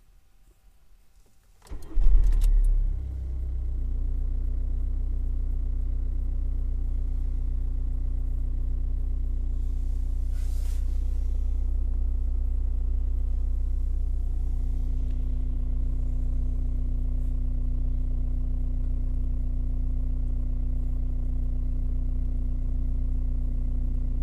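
A Skoda Octavia 1.9 TDI four-cylinder turbodiesel engine starting about two seconds in, with a brief loud burst as it fires, then settling into a steady idle.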